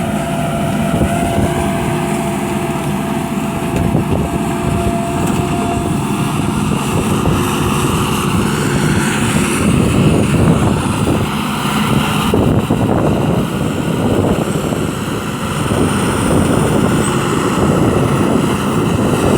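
Ford 7710 tractor's diesel engine running steadily, working with a plough. Its even engine tone fades into a rougher, noisier running sound after about six seconds.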